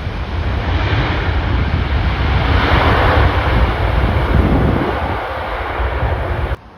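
Storm-force wind buffeting the microphone with heavy low rumble, and a loud rushing noise that swells about halfway through and then fades. The sound cuts off abruptly near the end.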